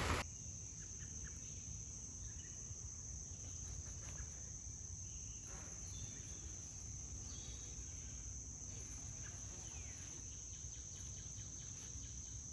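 Field insects chirring in a steady, unbroken high drone, over a low outdoor rumble, with a few faint chirps here and there.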